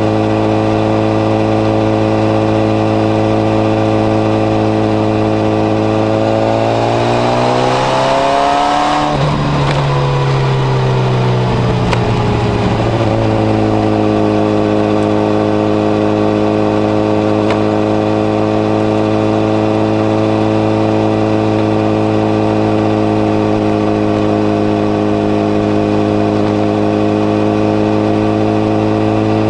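Honda CBR1000RR inline-four running through a modified Moriwaki muffler with its baffle fitted, holding steady revs while riding. Partway through, the revs climb for a few seconds, break off sharply, and ease back down to the same steady note.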